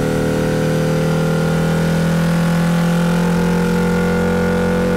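Renaultsport Clio 172's 2.0-litre four-cylinder engine running at steady revs under way, heard from inside the cabin; its pitch holds level throughout.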